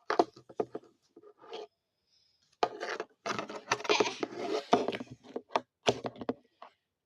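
Slime being squished and pulled apart by hand: clusters of wet clicks and crackles, sparse at first, then dense for several seconds after a short pause.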